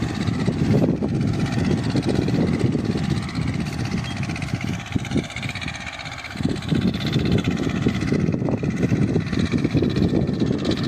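Escort 325 tractor's diesel engine running hard while pulling an 11-tine cultivator, with a brief drop in level a little past the middle.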